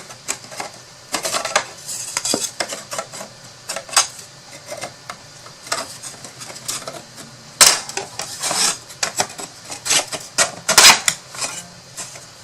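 Thin wooden box pieces clattering and knocking together as tabs are fitted into slots: irregular clicks and taps, with two louder knocks about two-thirds of the way in and near the end.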